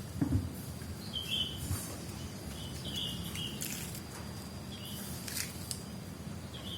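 Small pet bird giving short, high chirps several times, among a few brief hissing bursts.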